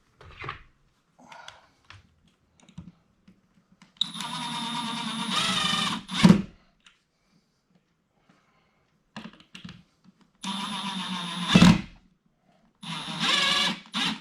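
Milwaukee cordless drill driving screws through a curtain-rod bracket into drywall wall anchors (mollies): three runs of steady motor whine. The first two end in a sharp clunk as the screw seats, and there is light clicking of handling between them.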